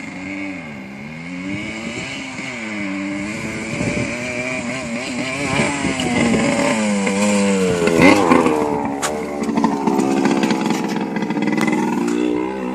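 Dirt bike engine revving up and down repeatedly as it is ridden, growing louder to a peak about eight seconds in.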